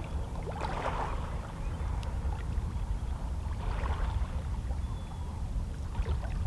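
Small waves of a calm sea lapping against shoreline rocks, splashing about every three seconds over a steady low rumble.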